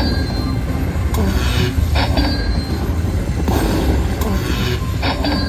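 Magic Pearl Lightning Link slot machine playing its bonus feature: short electronic chimes with high tones and sliding pitches that repeat every second or so, over a steady loud casino din.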